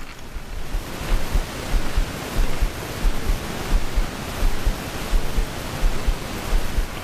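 Wind buffeting the microphone: a steady rushing hiss with irregular low thumps, growing stronger about a second in.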